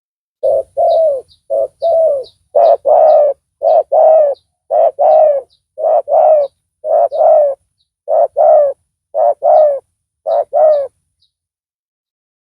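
Spotted dove (tekukur) cooing loudly: about ten repeated coo phrases, each a short note run into a longer one, stopping about eleven seconds in.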